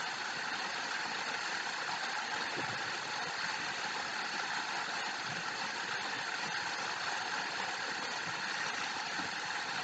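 Steady rush of a waterfall, an even hiss of falling water that does not change.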